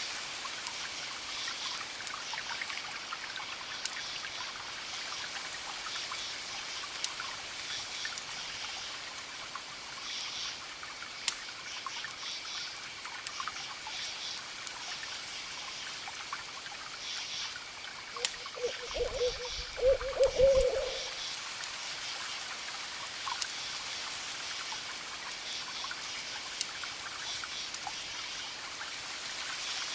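Campfire crackling with scattered sharp pops, over crickets chirping in even pulses and a steady hiss of distant ocean waves. About nineteen seconds in, a brief low wavering call stands out as the loudest sound for about two seconds.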